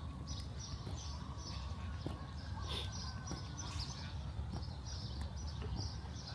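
City street ambience: a steady low rumble of wind and traffic, with short high chirps repeating a few times a second.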